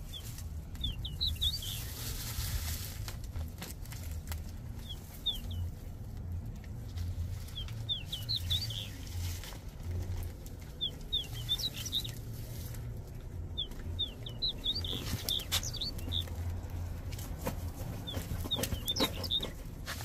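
A small bird chirping in quick clusters of short high notes, a group every couple of seconds, over a low rumble. Potato foliage and soil rustle as they are handled, with a few sharp knocks near the end.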